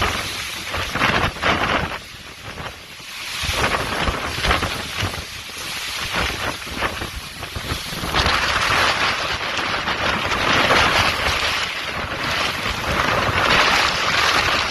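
Heavy rainstorm with gusts of wind buffeting the microphone, rising and falling unevenly. From about eight seconds in, a steady, louder rushing sound takes over.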